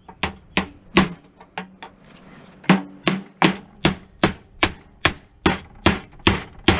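Hammer blows on cast aluminium, struck again and again at about three a second, with a short pause about two seconds in; some blows leave a brief metallic ring. The aluminium casting is being knocked loose from a brass fitting that would not unscrew.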